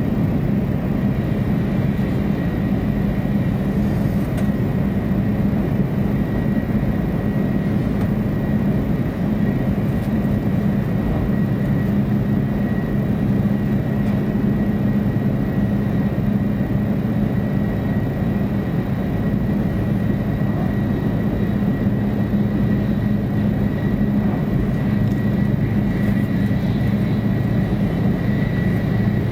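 Steady running noise of a 500-series Shinkansen at speed, heard from inside the car: an even, low rumble with a thin, steady high whine over it.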